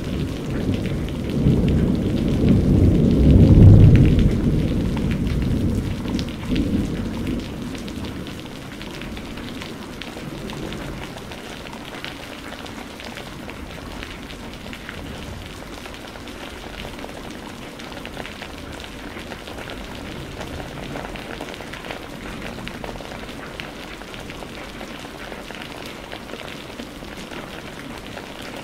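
Steady rain falling, with a rumble of thunder that swells to its loudest about three to four seconds in and dies away by about eight seconds, leaving only the rain.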